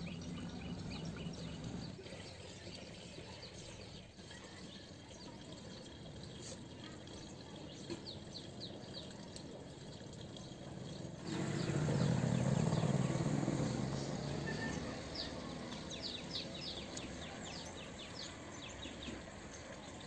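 Small birds chirping in quick, short, high calls over steady outdoor background noise. A louder low rumble cuts in about halfway through and fades over the next three seconds.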